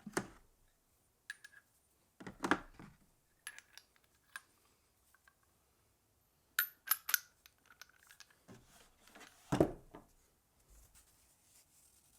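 Scattered metal clinks and knocks of hand tools and small metal parts being handled and set down, some clinks ringing briefly at a high pitch, with the loudest dull knock about three-quarters of the way through.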